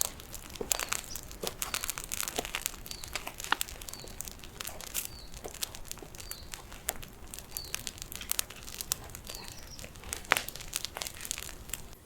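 Small campfire crackling, with irregular sharp snaps and pops, as damp branches burn.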